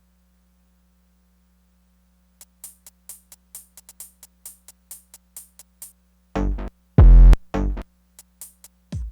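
Korg Electribe Sampler ES2 drum pattern. After a couple of seconds with only a faint hum, it plays a run of short high ticks, about five a second. A few deep, bass-heavy hits follow, the loudest about seven seconds in.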